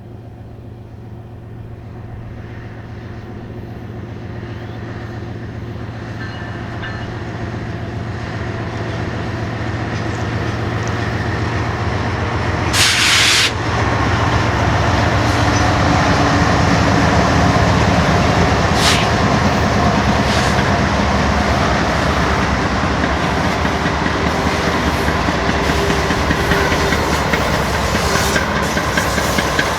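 BNSF intermodal train's diesel locomotives approaching, their steady engine drone growing louder over the first dozen seconds, then a continuous rumble and clatter of wheels on rail as the train goes by. A short loud hiss comes about 13 seconds in.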